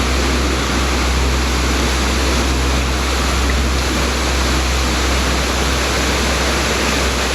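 Steady rushing of a nearby waterfall: an even, unbroken wash of falling water with a low rumble underneath.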